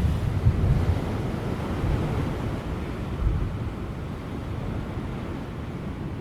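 Ocean surf breaking and washing over offshore rocks, a steady rushing noise, with wind buffeting the microphone in low rumbling surges in the first second and again about three seconds in.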